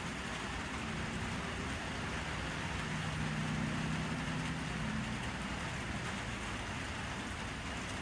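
Steady rain falling, an even hiss without pauses. A low hum swells up in the middle and fades again.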